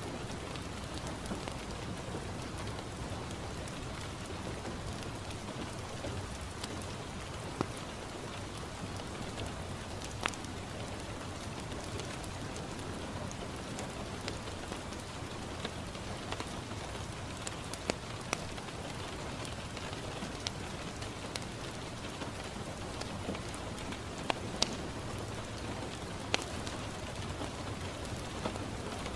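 Steady rain falling on a window pane, with sharp pops from a crackling wood fire at irregular moments.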